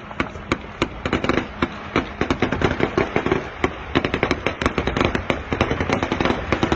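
Air-defence gunfire against incoming Shahed (Geran) attack drones: a dense, irregular string of sharp cracks, several a second.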